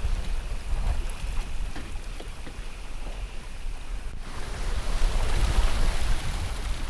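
Wind buffeting the microphone over the rushing hiss of seawater along a sailboat under way in a lumpy sea. About four seconds in there is a brief break, after which the rush of water is louder.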